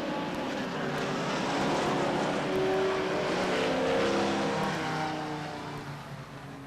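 A pack of stock race cars passing, several engine notes at different pitches overlapping. The sound swells to a peak about four seconds in and then fades away.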